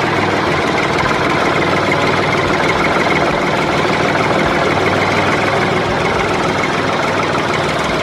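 An engine running steadily with a fast, even knocking rhythm.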